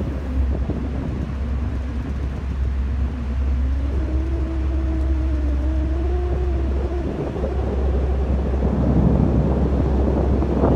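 Ferry engine droning steadily, with a wavering higher hum from about three to seven seconds in. Near the end, rushing wind and water wash grow louder.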